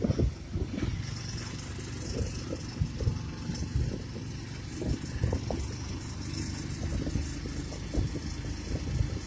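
An engine running steadily, with wind buffeting the microphone in irregular low thumps.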